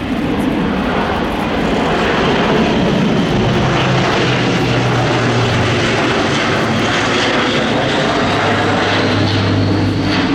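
Airbus A400M's four Europrop International TP400 turboprops on a slow low pass: a loud, steady propeller drone with a low hum that dips in pitch about midway and rises again near the end.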